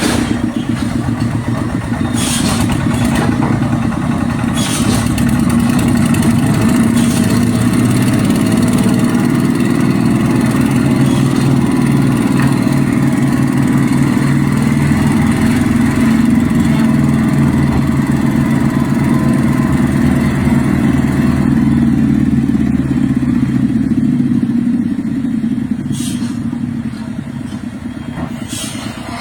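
Tractor engine running steadily, quieter from about 24 seconds in, with a few sharp knocks over it.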